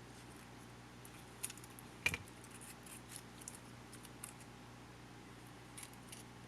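Scattered small clicks and taps of a camcorder's small parts and tools being handled during disassembly, one sharper click about two seconds in, over a steady low hum.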